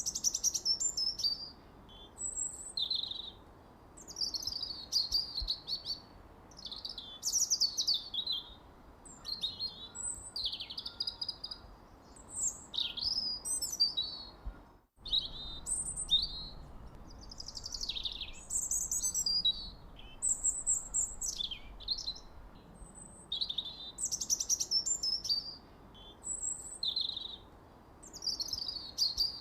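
Songbirds chirping and singing: a continuous string of short, mostly falling chirps and trills, several birds overlapping, over faint background hiss. The sound cuts out for a split second about halfway through.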